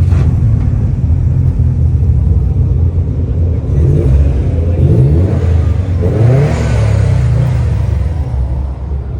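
Car engine running with a steady low rumble, revved up sharply twice about halfway through.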